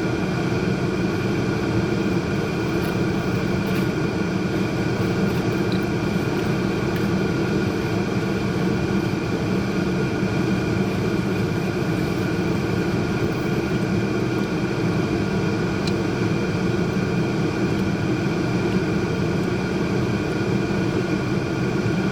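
A steady mechanical drone with a constant hum at several fixed pitches, unchanging throughout.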